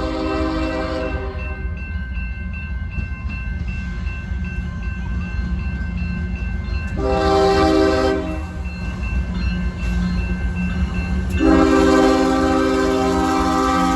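Diesel freight locomotive horn sounding in separate blasts: one ending about a second in, a short blast about halfway through, and a long blast starting near the end. The pattern is typical of the close of a grade-crossing signal. Under the horn runs the steady low rumble of the locomotive and train.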